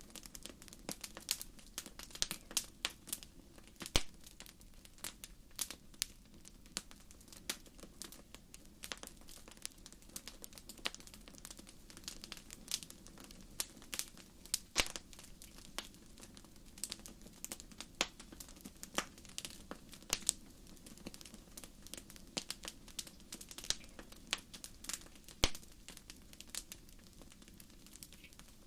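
Wood fire in a fireplace crackling: irregular sharp pops and snaps, several a second, with a few louder pops, over a low steady undertone from the burning.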